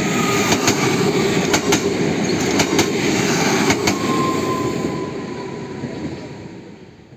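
Diesel railcar passing over a level crossing: a steady rumble with pairs of sharp wheel clacks about once a second, fading away over the last two seconds.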